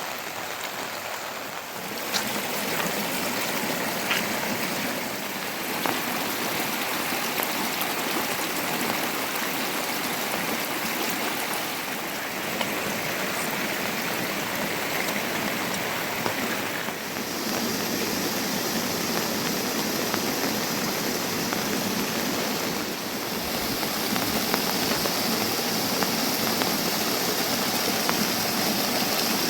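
Steady rushing of water in the rain, a constant hiss that changes in tone several times.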